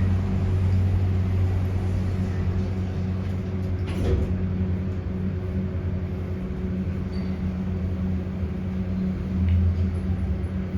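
Elevator car travelling upward between levels: a steady low hum from the drive, with a brief knock about four seconds in.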